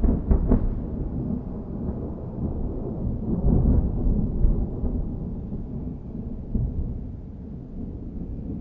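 Rolling thunder rumbling after a close strike, loudest at first and slowly dying away with a few swells.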